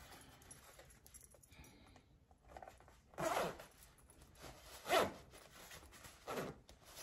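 A jacket zipper being pulled, in three short zips about three, five and six and a half seconds in.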